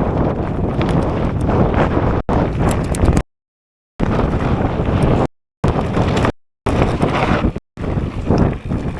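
Strong wind buffeting the action camera's microphone during a mountain bike ride, a heavy rumbling noise. The sound cuts out to complete silence several times, once for most of a second and a few times briefly.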